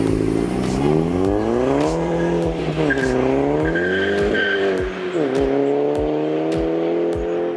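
Performance car engine revving under acceleration. Its pitch climbs steadily, then drops sharply twice before climbing again.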